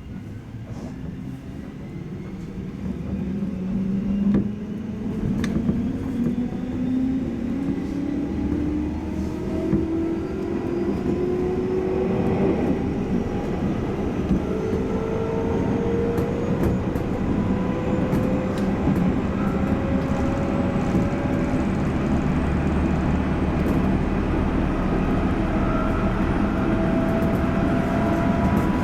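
JR 211 series electric train pulling away and accelerating: the traction motor and gear whine climbs steadily in pitch as speed builds, over a rumble of wheels on rail that grows louder.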